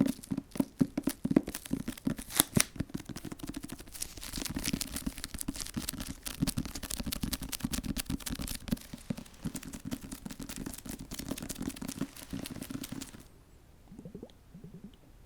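Close-miked ASMR handling sounds: dense, rapid crackling and crinkling, like fingers working a crinkly material, that cuts off suddenly near the end, leaving only faint soft touches.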